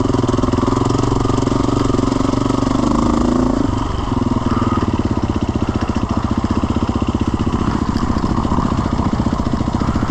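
Mud jet ski's engine running close by with a steady, rapid putter; its note dips and shifts about four seconds in, then holds steady.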